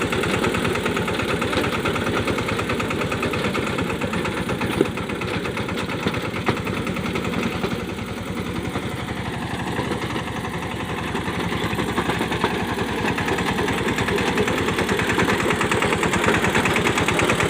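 Eicher 188 mini tractor's diesel engine running steadily under load while it drives a rotavator puddling a wet field. It eases slightly around the middle and picks up again near the end.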